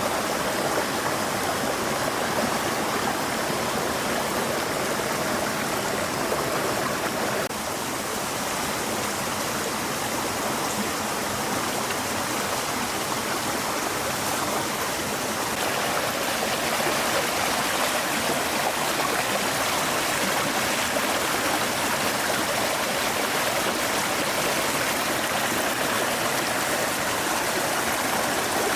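Stream water flowing steadily over rocks, a continuous rushing babble that dips slightly about seven seconds in and grows a little fuller about halfway through.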